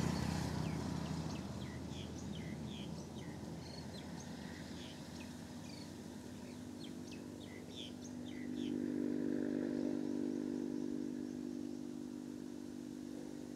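Outdoor roadside ambience: birds chirping in short, quick calls over the first several seconds while a passing vehicle fades away. About two-thirds of the way in, a steady engine hum comes up and keeps running.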